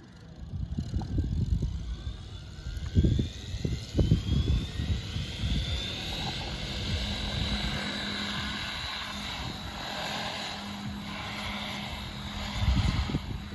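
PSG-Dynamics Seven electric RC helicopter spooling up: the Xnova 4030 560Kv brushless motor's whine rises in pitch over the first few seconds, then settles into a steady whine and rotor hum at head speed. Bursts of low rumble come a few seconds in and again near the end.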